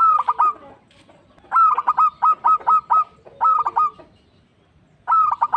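Zebra dove (perkutut) singing: four phrases of quick, clipped cooing notes in rapid series. The longest phrase, about 1.5 s in, runs to about eight notes.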